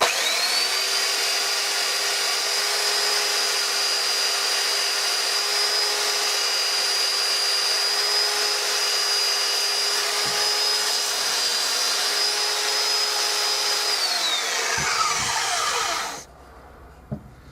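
Electric power tool flattening down a piece of wood: the motor spins up quickly, runs with a steady high whine and grinding hiss, then winds down near the end.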